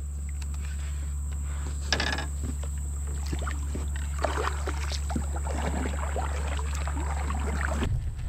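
Kayak on the water with a steady low hum that cuts off shortly before the end, and scattered light knocks and splashes of the boat and tackle.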